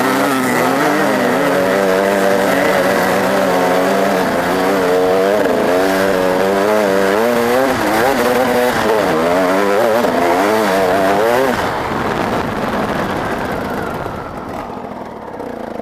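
Motocross bike engine revving hard, its pitch rising and falling again and again with the throttle. After about eleven seconds it grows quieter and fades away.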